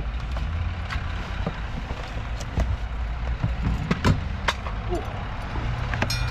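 Steady low rumble of road traffic going past, with scattered clicks and knocks close by.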